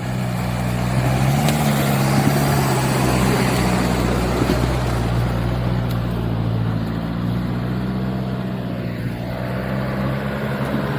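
Off-road 4x4's engine running at low, fairly steady revs, with a small rise in revs about a second and a half in, under a steady loud rushing noise.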